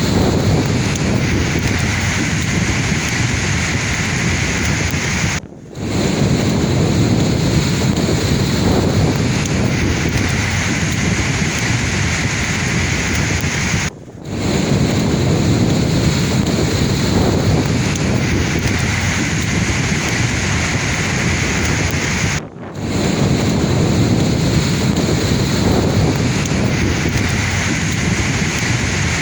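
Sea waves washing in a steady, loud rush of surf, with three brief drops in level about every eight to nine seconds.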